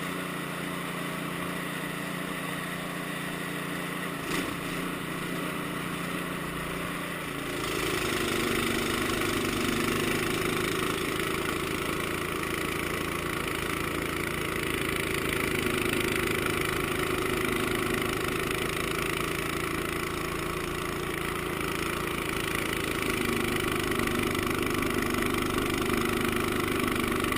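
Cub Cadet 524SWE two-stage snow blower's engine running steadily. About seven seconds in it gets louder and deeper and stays that way.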